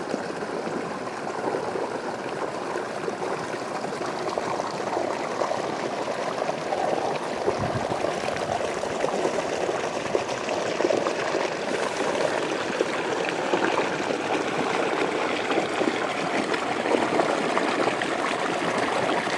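Water flowing steadily along an irrigation ditch (acequia), a constant rushing and gurgling.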